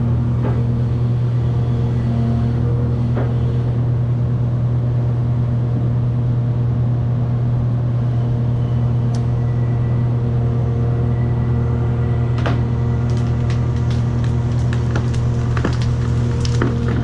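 Cat 336 excavator's diesel engine running at a steady drone while wood from the house cracks and splinters. The cracks come thicker over the last few seconds.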